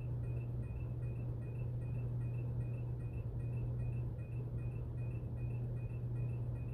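Ceiling fan running with a short, high squeal repeating evenly about four times a second, at the same spot in every turn, over a steady low hum. The owner suspects a bearing or something rubbing inside the turning part.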